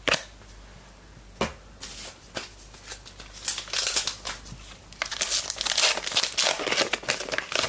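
A trading card pack's wrapper crinkling and being torn open, with a few sharp clicks early on and the crackling heaviest in the second half.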